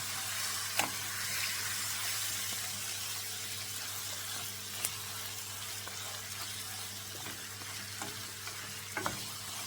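Curry and chicken sizzling in hot oil in a pot, a steady frying hiss, with a few light clicks of a utensil stirring.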